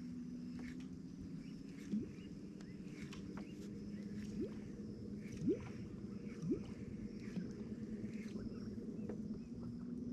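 Boat's electric trolling motor humming steadily, with several short rising whirs cutting in over it and faint high chirps in the background.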